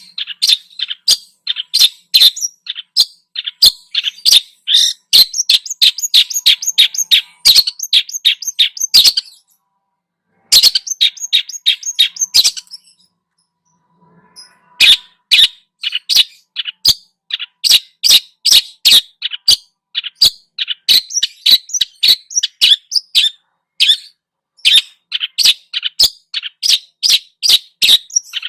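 A songbird calling in a fast series of short, sharp chirps, several a second, with two brief pauses partway through.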